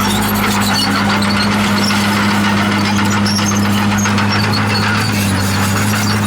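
Komatsu D51PX crawler bulldozer's diesel engine running steadily with a constant low hum, over working noise.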